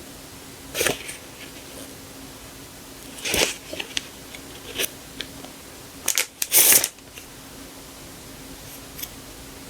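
Stickers and their paper and plastic packaging being handled: a handful of short crinkles and rustles, the longest about two thirds of the way in, over a faint steady hum.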